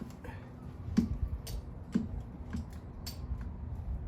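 Light clicks and knocks of tools and metal parts being handled and set down on a workbench: about five sharp taps, the loudest about a second in, over a low background rumble.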